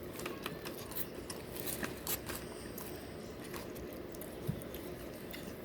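Close-miked chewing and biting of food, with scattered small crackles and mouth clicks over a steady low room hum.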